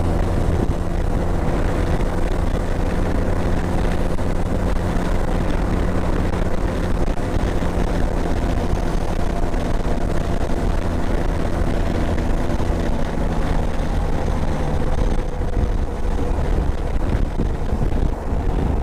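Motorcycle engine running steadily under way, a constant low drone with wind and road noise around it.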